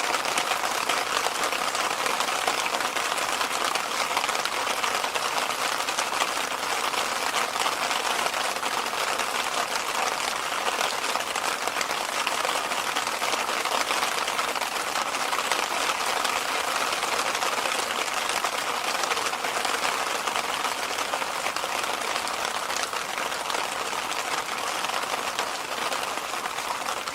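Electric fan running steadily: an even rush of air, hissy and without bass, that does not change.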